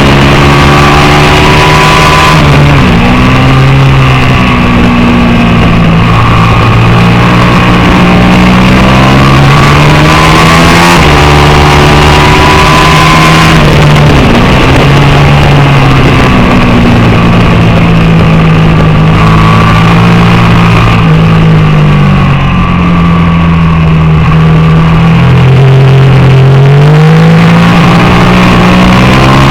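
750 superbike racing motorcycle engine at high revs, very loud throughout, its pitch climbing and falling as it accelerates and slows, with several sudden pitch drops at gear changes, over a steady rush of noise.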